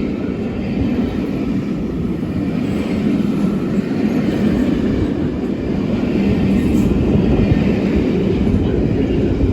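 Class 67 diesel-electric locomotive, its two-stroke V12 diesel running under power as it hauls a rake of Pullman coaches through the station, with steady low rumble of engine and wheels that grows a little louder in the middle.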